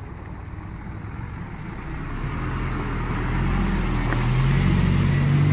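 Truck engine running, growing steadily louder from about two seconds in as it comes closer or takes on load.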